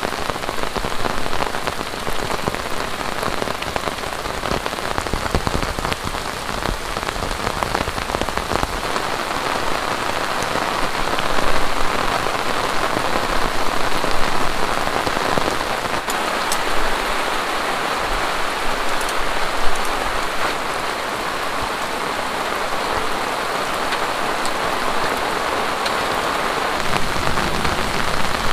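Heavy rain falling steadily: a dense, continuous hiss of pouring rain with scattered individual drops.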